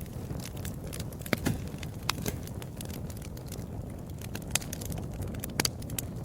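Wood fire crackling: irregular sharp pops and snaps over a steady low rumble of the flames, with a few louder pops about a second and a half in and near the end.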